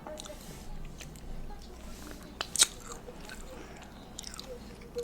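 Close-miked eating: quiet chewing with a few faint clicks and two sharp crunchy bites about two and a half seconds in.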